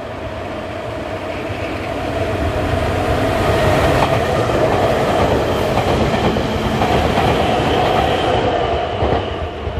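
Nankai 7100 series four-car electric train running through the station without stopping. It grows louder over the first few seconds as it arrives, then passes close by with steady rolling noise and wheels clattering over the rail joints, easing off slightly near the end.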